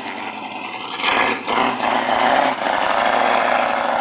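A car's engine revving as the car drives off, growing loud about a second in and staying loud.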